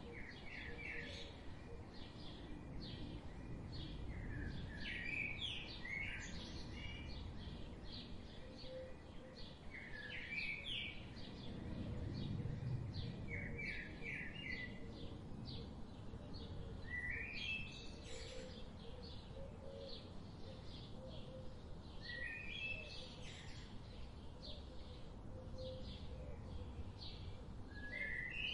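A songbird repeating a short phrase of quick rising and falling chirps every few seconds, over a constant fast high ticking and a low rumble on the microphone.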